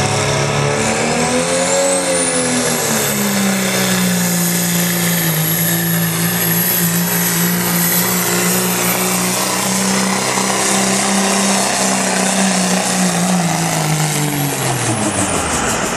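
Turbocharged diesel pickup engine running hard at high revs under load, pulling a sled. A high turbo whistle climbs about two seconds in and then holds steady, and near the end the engine revs drop off as the pull finishes.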